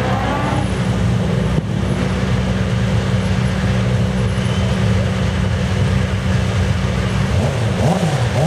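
Sports saloon racing car engines running steadily at low revs. Near the end, one engine is blipped up and down a few times.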